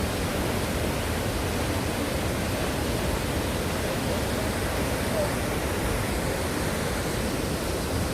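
Steady, even rush of Cheonjiyeon Waterfall falling into its pool: constant water noise, heaviest in the low end, with no breaks or changes.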